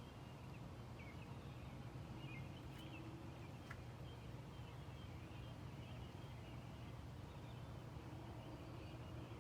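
Robins singing faintly, with scattered short chirping notes, over a steady low background rumble.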